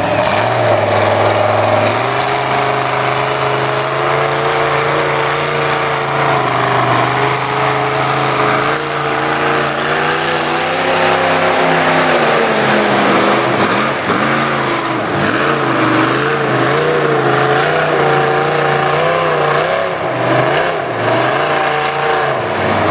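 Mud truck's engine running hard, its pitch held fairly steady for about twelve seconds, then revving up and down over and over as the throttle is worked.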